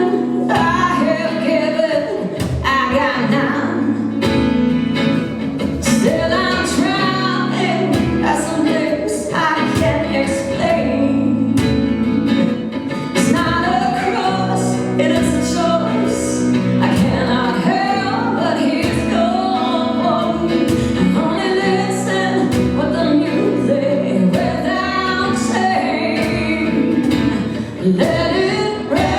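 A song performed live: a woman singing lead over instrumental accompaniment with sustained low notes and percussive strokes.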